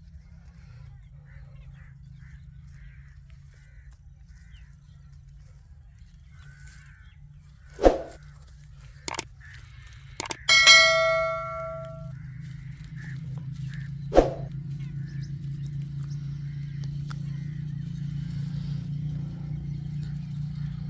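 Several sharp knocks and a metallic clang that rings on for about a second and a half, over a steady low hum. Faint short chirps repeat about twice a second in the first few seconds.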